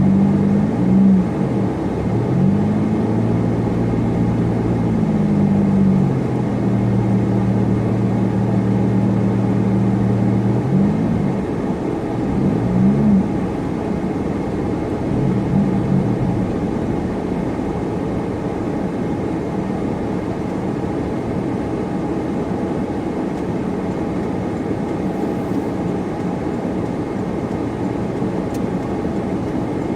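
Supercharged car driving, with steady road and tyre noise. The engine note rises and falls several times in the first half and is held level for a few seconds in between, then fades into the road noise.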